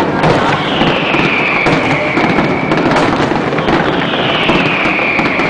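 Fireworks display: a dense, continuous run of shell bursts and crackling. Twice, about a second in and again near the end, a high whistle slides down in pitch over a second or so.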